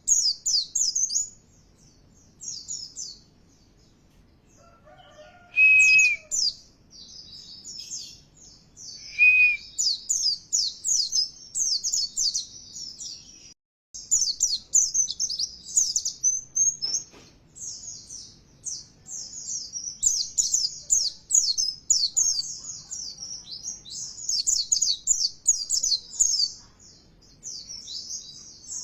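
White-eye (pleci) song: rapid, high twittering in long unbroken runs. It pauses for a couple of seconds early on and breaks off briefly about halfway. This is a lure recording used to make caged white-eyes sing.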